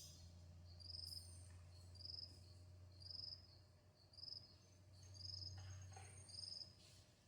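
An insect chirping faintly: a short, high chirp about once a second, over a low steady hum.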